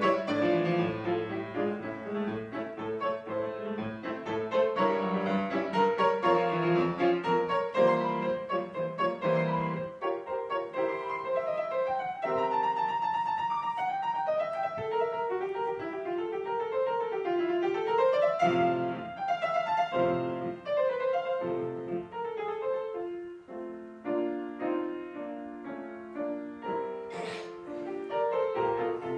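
Piano playing classical music, flowing runs over chords, with a brief noise near the end.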